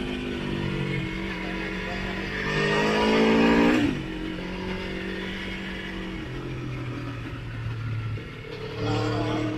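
Motorcycle engine under way on the road: it runs steadily, revs climb to a peak about three to four seconds in, then drop sharply. It settles at lower revs, dips again around six seconds, and picks up once more near the end.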